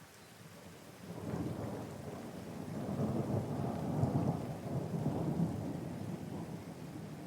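A long rumble of thunder over steady rain: the low roll comes in about a second in, swells to its loudest midway, then slowly fades.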